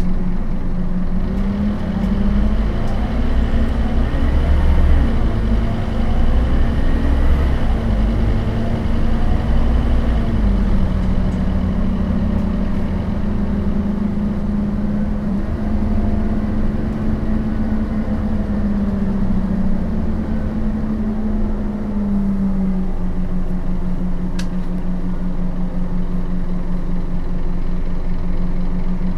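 Scania DC9 five-cylinder turbodiesel of a Scania K270UB bus with a ZF Ecomat automatic gearbox, running. Its note climbs and falls twice, with a heavy low rumble in the first third, then holds steady for the last quarter.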